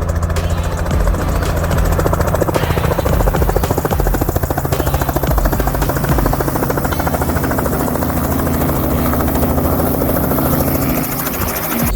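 Tour helicopter running steadily, its engine and rotor giving a rapid, even beat over a steady drone; the sound drops away near the end.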